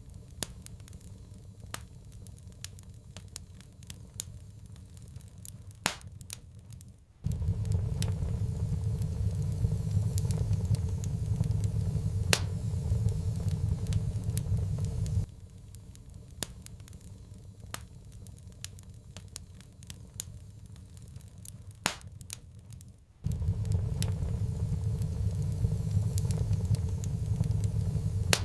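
Wood fire in a fireplace crackling, with scattered sharp pops. A low rumble underneath cuts in abruptly about 7 seconds in, drops out about 15 seconds in, and returns about 23 seconds in.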